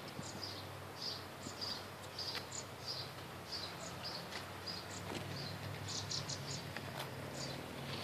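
Faint, short high chirps repeated about twice a second from a small bird calling, over a low steady hum and a few light clicks.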